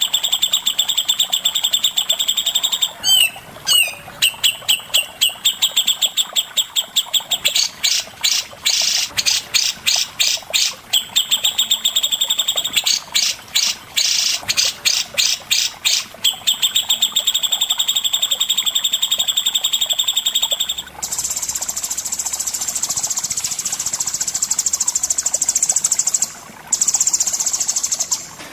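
Songbird singing a long run of rapid, evenly repeated high notes that break into separate, spaced chirps in places. About two-thirds of the way in it switches to a higher, harsh buzzing rasp that lasts to the end.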